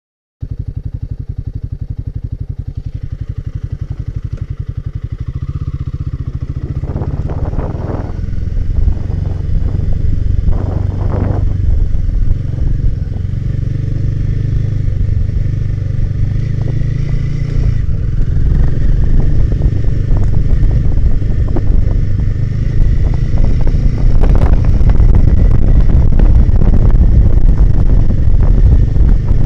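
Royal Enfield Himalayan 450's single-cylinder engine running with an even low pulse, growing louder from about five seconds in as the bike gets moving. A few clattering knocks come around the middle, and the engine and wind noise rise toward the end.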